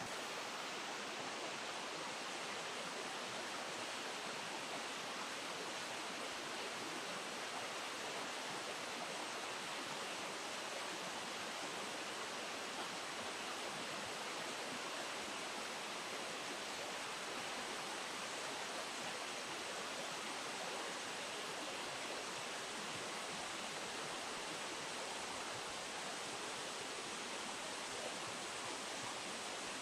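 River water rushing steadily over a low weir step, a constant even rush with no breaks.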